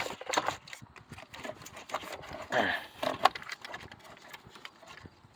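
Hands fumbling with parts in a car's engine bay: a few scattered clicks and knocks, loudest right at the start and about three seconds in.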